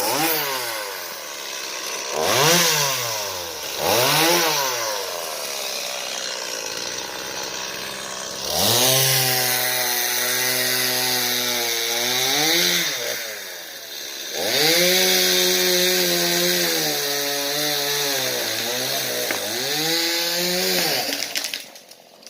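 Two-stroke chainsaw revved in three quick blips, then idling briefly, then held at full throttle through two long cuts, letting off for a moment between them, and stopping near the end.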